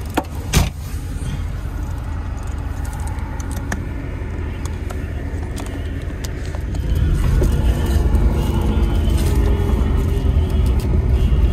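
Moskvich 407's four-cylinder petrol engine running with a steady low rumble. About seven seconds in it revs up and holds louder. Two sharp knocks come near the start.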